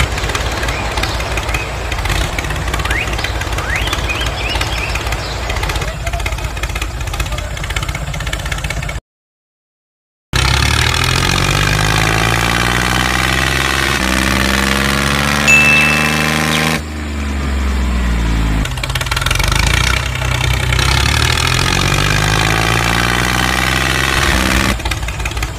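Engine running steadily, its pitch rising and falling several times. The sound cuts to dead silence for about a second roughly nine seconds in.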